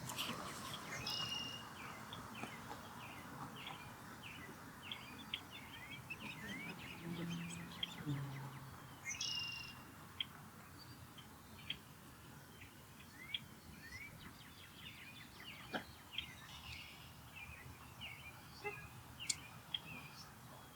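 Birds chirping: a steady run of short, high chirps and quick upward-sliding notes, with a couple of louder calls about a second in and about nine seconds in.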